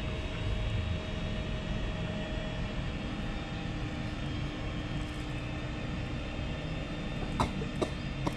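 A steady low outdoor rumble, with a few sharp clicks near the end.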